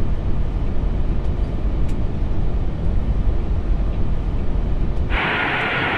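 Airbus A380 flight deck on short final: a steady low rumble of airflow and engines. About five seconds in, a band of hiss cuts in and the lowest rumble drops away.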